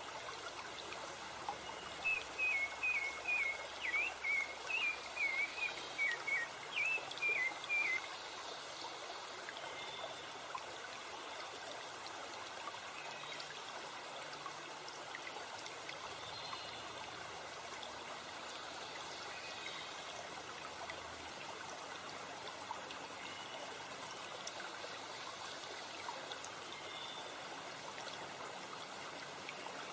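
Stream water running steadily over rocks. In the first third a bird gives a quick series of about a dozen short chirps, roughly two a second, then only the water is left.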